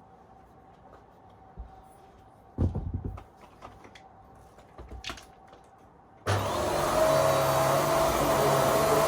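A few handling knocks and clatters, then about six seconds in the VAX Airmax Stretch vacuum cleaner switches on and its motor runs steadily with a whine.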